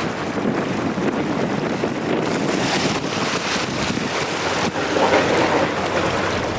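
Strong wind buffeting the microphone: a steady rushing noise that swells in gusts, a little stronger about five seconds in.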